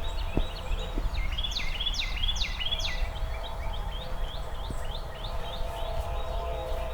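A songbird singing rapid repeated phrases of downward-slurred whistled notes, over a steady low hum and outdoor background noise.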